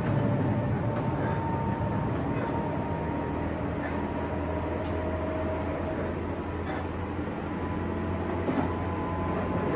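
Running noise inside a JR West 201 series electric train's motor car, running at speed between stations: a steady rumble of wheels and traction equipment with a few faint steady tones, and occasional faint clicks of the wheels passing rail joints.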